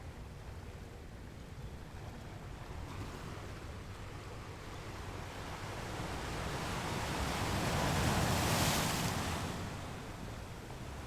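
Ocean surf on a beach: a wave swells over a few seconds, is loudest with a hissing wash about eight seconds in, then fades back to a steady low rumble.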